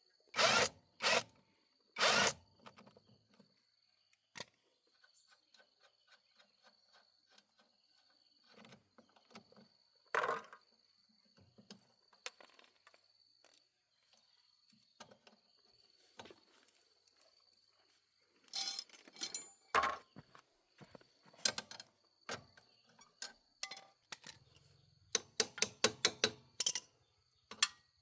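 Scattered knocks and clanks of hand-tool work, with three loud strikes at the start, a cluster about two-thirds through and a quick run of about eight strikes near the end. A steady high insect trill runs underneath.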